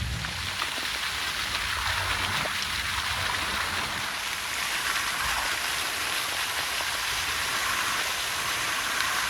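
Steady rushing, splashing water, an even hiss with no rhythm or breaks.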